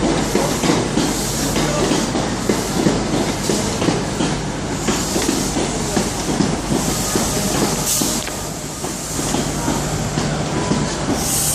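InterCity 125 high-speed train coming into the platform, its coaches rolling past with a steady rhythmic clickety-clack of wheels over rail joints under a low hum. A high hiss swells in about halfway through and again near the end.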